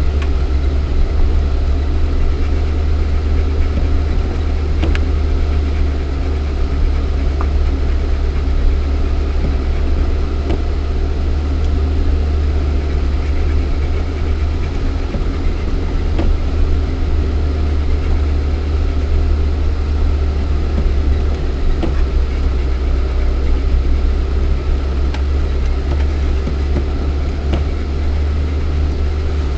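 Lada Niva's 1.7-litre four-cylinder petrol engine running steadily, heard from inside the cabin, with a deep rumble and a few faint ticks.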